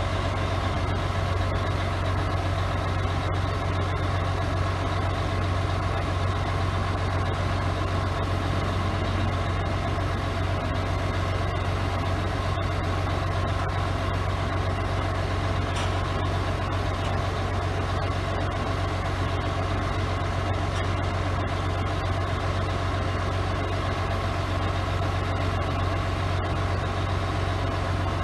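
1976 Mack DM868 roll-off truck's diesel engine idling steadily with a deep, even hum.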